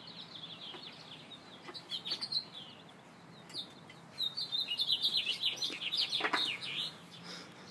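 Birds chirping, a quick run of short high notes that grows busy about halfway through, with a few faint clicks.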